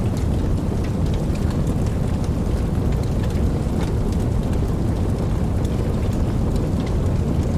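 Steady rainfall, a dense even hiss with scattered single drop ticks, over a continuous deep low rumble.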